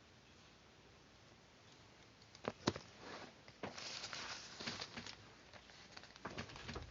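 Paper and craft tools being handled: rustling with several sharp clicks and taps, starting about two and a half seconds in.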